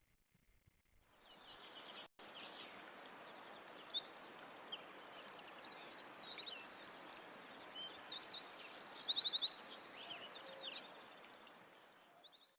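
Birds singing outdoors: many rapid high trills and chirps over a steady background hiss. It fades in about a second in, is loudest in the middle and tapers off near the end.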